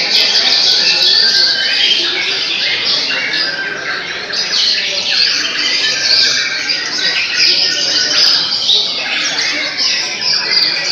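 Many white-rumped shamas (murai batu) singing at once: a dense, continuous chorus of overlapping whistles and chirps.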